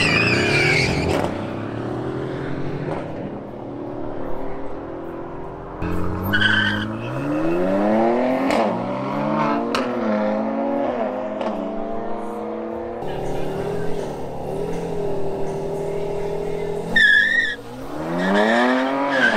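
Mercedes-AMG car driven hard on track: the engine climbs in revs and drops back several times through upshifts, then holds a steady note for a few seconds. Short tyre squeals come near the start, about six seconds in, and about seventeen seconds in.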